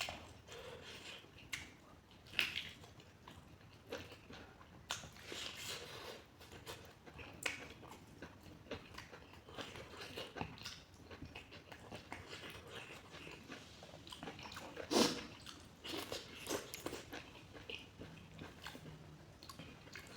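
Close-up chewing and mouth smacking of a person eating a curry meal, with many irregular wet clicks and occasional crunchy bites; one sharp loud smack comes about fifteen seconds in.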